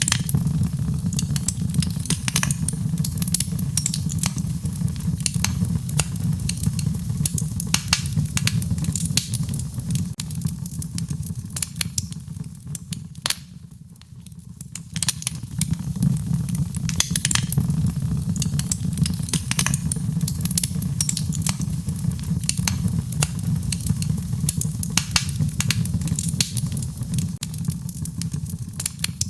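Fireplace fire crackling with frequent sharp pops over a low, steady rumble of flames. The sound dips briefly about halfway through, then carries on as before.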